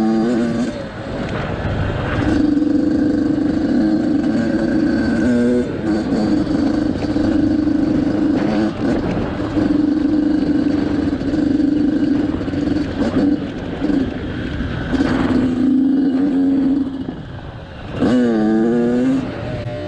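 Motorcycle engine running hard at high revs, holding a steady pitch for long stretches with brief drops in between, then a quick fall and rise in revs near the end.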